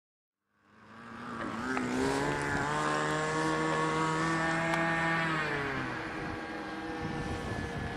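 An engine fading in, rising in pitch, holding a steady high speed for a few seconds, then easing off to a lower, steadier run near the end.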